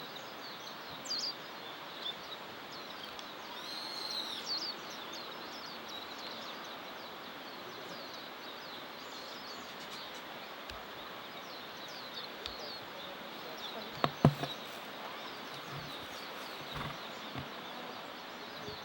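Small birds chirping: many short, high calls scattered over a steady outdoor background noise, with one longer rising-and-falling whistled call about four seconds in. Two sharp knocks about fourteen seconds in are the loudest sounds.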